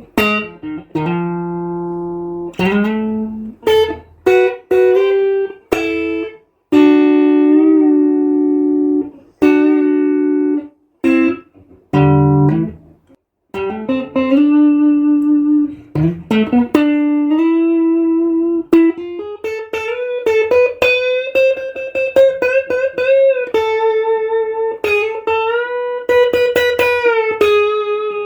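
Strat-style electric guitar playing a lead melody. The first half is short phrases, some in two-note chords, broken by brief pauses. After that come longer held notes with string bends and vibrato.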